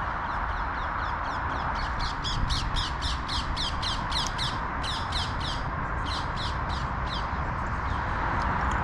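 Ring-necked parakeets calling: a rapid series of shrill, falling screeches, about four a second, kept up for several seconds with a short break midway.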